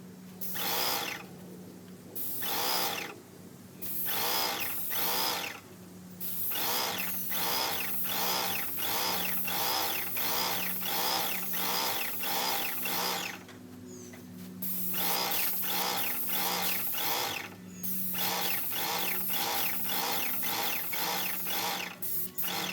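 Airless paint sprayer running and pulsing in rapid rhythmic bursts, about two a second, with a steady hum underneath and a few short pauses. The sound cuts off at the end.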